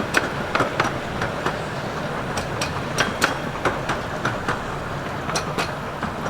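Miniature-railway carriages rolling slowly, their wheels clicking irregularly over rail joints and points, over the steady running of the diesel locomotive JB Snell pushing them during shunting.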